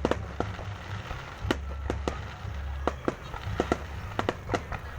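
Fireworks going off, with about a dozen sharp cracks and pops at irregular intervals over a steady low rumble.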